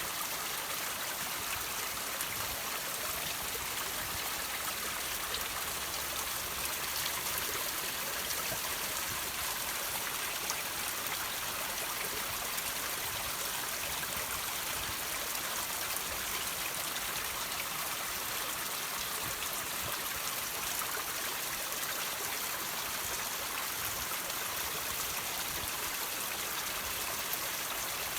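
Water running and dripping over rocks: a steady trickling hiss with small drips scattered through it.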